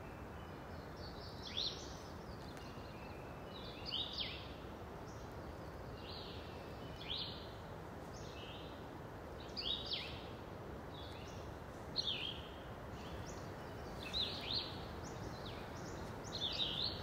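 A bird calling over and over, a short chirp rising in pitch every two to three seconds, with fainter bird notes between, over a steady background hiss.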